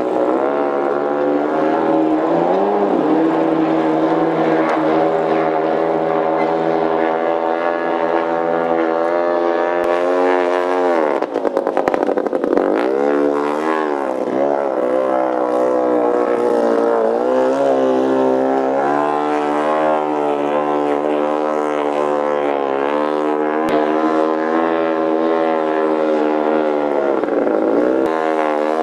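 Antique outboard motor running on a boat, a loud steady engine note that dips and rises in pitch around the middle and again near the end.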